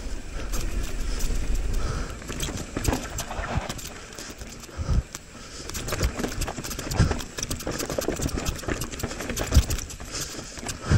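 Mountain bike ridden over rough, rocky technical trail: irregular knocks and clatter as the tyres, suspension and frame hit rocks and roots, with a low rumble in the first two seconds.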